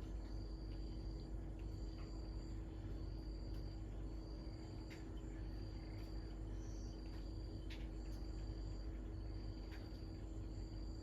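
An insect calling in a high trill that repeats evenly, each trill about a second long with a short pause between, over a steady low hum.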